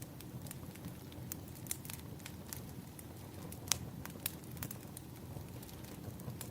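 Wood fire crackling: a steady low hiss of the flames with irregular sharp pops and snaps, one louder pop about halfway through.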